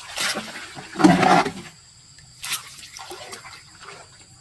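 Water splashing and sloshing in three short bursts; the loudest comes about a second in.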